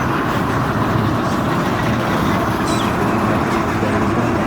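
A motor vehicle engine running steadily, with continuous road and traffic rumble.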